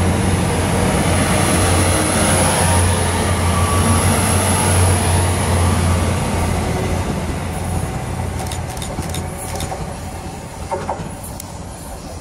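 GWR Intercity Express Train running through the platform on its underfloor diesel engines: a steady low engine hum over wheel and rail rumble that fades from about halfway as the train pulls away, with scattered sharp clicks near the end.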